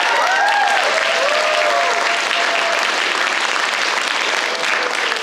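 Audience applauding, with whooping cheers over the clapping in the first couple of seconds, the applause thinning near the end.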